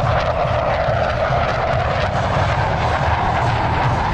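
Douglas A-4 Skyhawk jet flying its display, the jet engine's noise loud and continuous, with its pitch creeping slowly upward.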